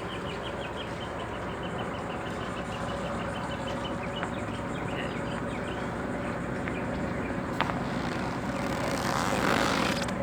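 Catamaran's engine running slowly with a steady hum while the boat creeps in to dock under power. A quick run of light ticks comes in the first half, and a louder rushing swell comes near the end.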